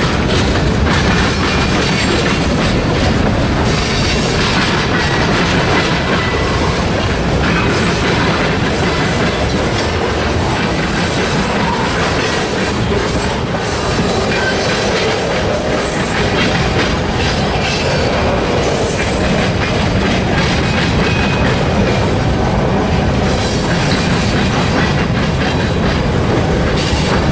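Freight train cars rolling past at close range, steady loud rumble of wheels on rail with clacks over the rail joints.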